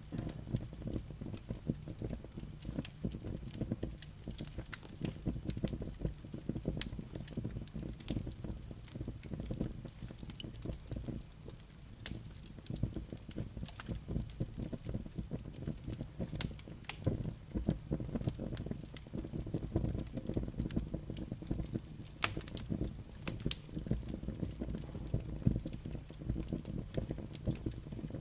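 Firewood burning in a fireplace: a steady low rumble of flames with frequent irregular crackles and sharp pops from the burning wood and embers.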